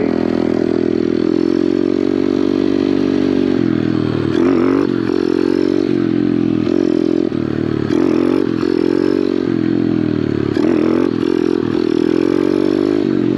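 Kawasaki pit bike's small single-cylinder engine running under a rider, its pitch rising and falling over and over as the throttle is rolled on and backed off, with several sharper surges of revs.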